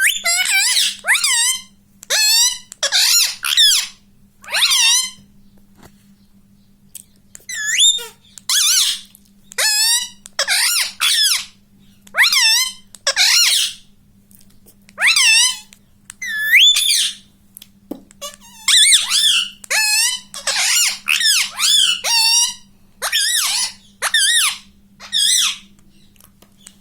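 Rose-ringed parakeet (Indian ringneck) squawking: short, shrill, high calls with swooping pitch, coming in quick clusters of two to four, about twenty in all.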